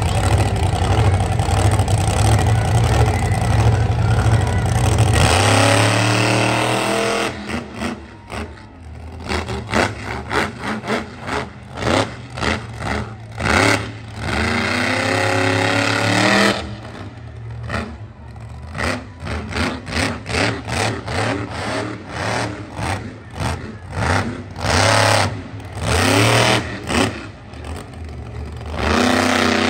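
Monster truck engine running hard and steady for about five seconds, then revving in many short throttle blips, the pitch rising and falling with brief lulls between.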